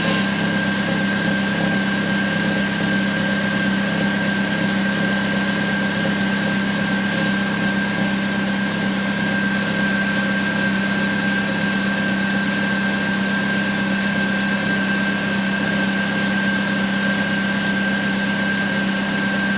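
BMW E46 316i's M43 four-cylinder engine idling steadily after a cold morning start, with a steady high tone over the running. It carries the strange metallic noise that the owner hears for the first two to three minutes after a cold start and cannot place.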